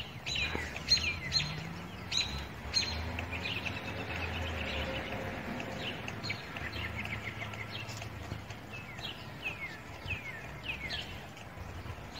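Small birds chirping over and over, short high chirps that slide downward, several in quick runs, over a low steady distant rumble.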